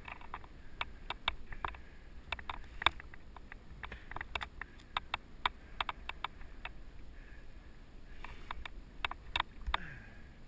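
Giant mountain bike clattering over a rough dirt trail, heard through a helmet-mounted GoPro: an irregular run of sharp clicks and knocks from the bike rattling and its chain slapping, over a low rumble of tyres on dirt.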